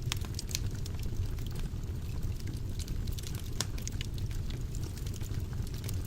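Fire burning in a fireplace: a steady low rumble of flames with frequent sharp crackles and pops scattered through it, one louder pop about three and a half seconds in.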